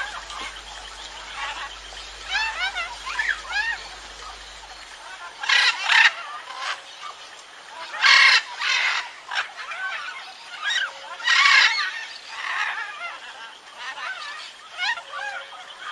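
Birds calling: a run of short chirping notes that rise and fall in pitch, broken three times by louder, harsher calls.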